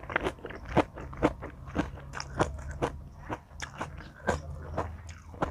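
A person chewing crunchy food close to the microphone, with sharp crunches about twice a second.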